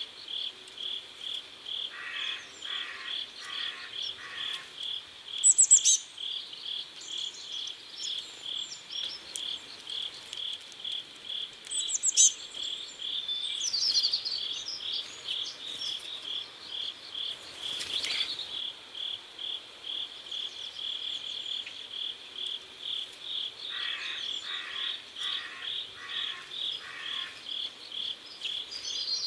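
Crickets chirping in an even rhythm of about two to three chirps a second. Twice, near the start and near the end, a lower pulsing call of four or five beats joins in, and a few short high bird chirps come over it, the loudest about six and twelve seconds in.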